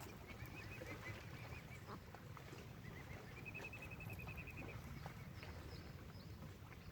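Mute swan cygnet peeping: strings of short, high calls, with a quicker run of them about three seconds in. A low, steady rumble of wind lies underneath.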